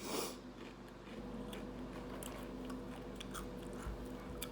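Close-miked eating: a bite, then chewing with small wet clicks and crunches. A steady low hum comes in about a second in.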